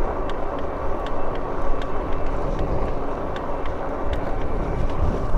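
Wind rumbling on the microphone and tyre noise of a Lectric e-bike riding along a street, with light clicks a few times a second.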